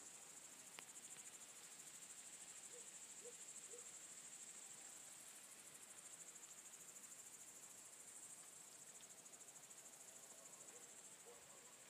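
Crickets chirring faintly and steadily in a high, rapidly pulsing trill. A few faint short low calls come in groups of three about three seconds in and again near the end.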